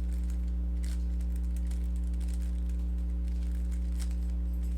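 Steady electrical hum, with a few faint clicks of a Rubik's cube being turned by hand.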